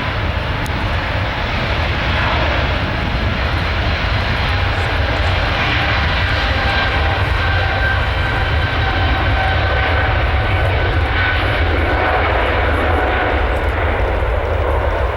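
Boeing 777's General Electric GE90 turbofans at take-off thrust: a loud, steady jet roar with faint whining tones that slowly sag in pitch.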